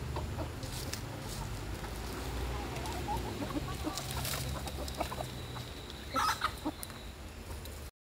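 Birds calling: scattered short, low clucking calls, with a louder call about six seconds in, over a steady low rumble.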